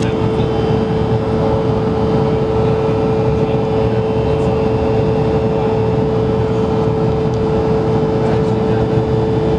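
Steady cabin noise inside an Embraer 170 jet airliner in flight: a constant drone of engines and airflow with a steady mid-pitched hum running through it.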